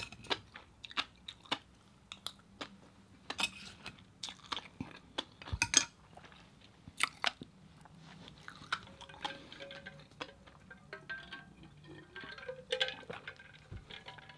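Close-miked chewing of a mouthful of rice and fish roe: soft wet smacks and sharp mouth clicks at irregular intervals.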